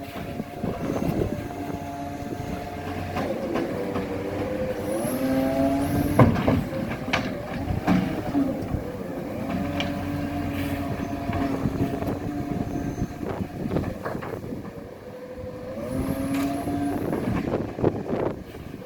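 Garbage truck's engine running, its pitch rising and falling as it revs up and down several times, with scattered knocks and clanks and a couple of brief high whines.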